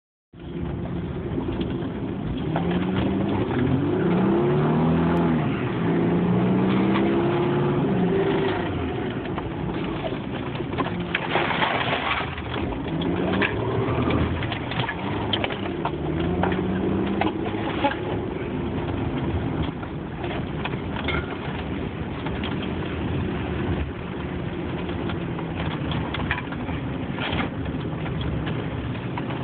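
Ford Mustang's engine heard from inside the cabin, revving hard with its pitch rising and falling in repeated sweeps as the car spins out on a wet road. The revving settles to a steadier drone over the second half, over a constant hiss with scattered clicks.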